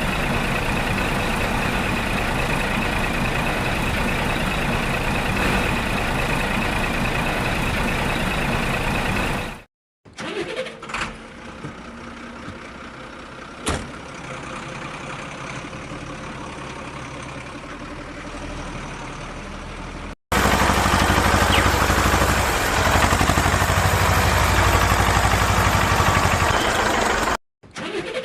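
Vehicle engines running in three clips cut together. A loud steady engine noise stops abruptly, then comes a quieter stretch with a few sharp clicks, then another loud steady engine run.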